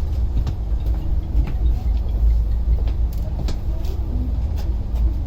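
A road vehicle on the move: a steady low rumble with faint clicks and rattles over it.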